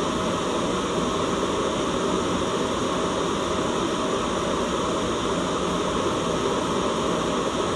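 Steady, unchanging white noise: an even hiss weighted toward the low end, with no breaks or events.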